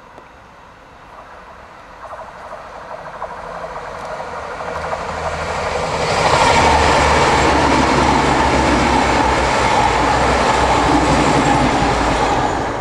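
A train approaching and passing close by. Its rumble and wheel noise build steadily to a loud, even level, then begin to fade near the end.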